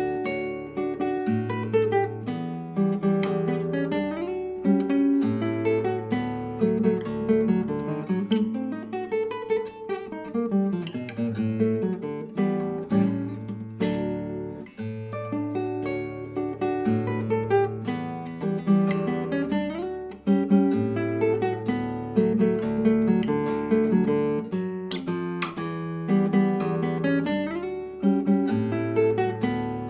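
Acoustic guitar music: plucked and strummed chords over bass notes that change every couple of seconds.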